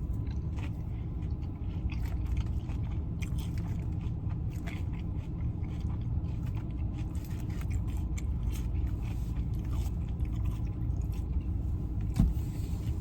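Close-up chewing and biting of food, with irregular wet clicks and crunches, over a steady low rumble; one louder knock near the end.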